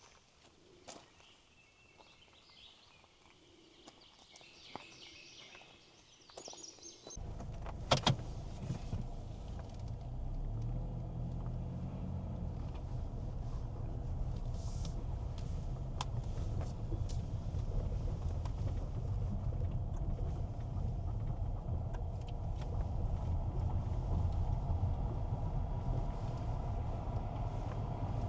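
Quiet for about seven seconds with a few faint clicks, then a car's low rumble starts suddenly and carries on steadily, with a sharp click about a second after it begins.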